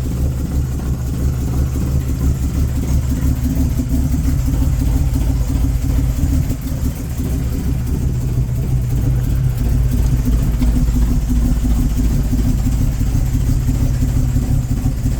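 1949 Lawrencetune Bentley Mark VI Special's straight-six engine running steadily at idle, still warming up after a cold start.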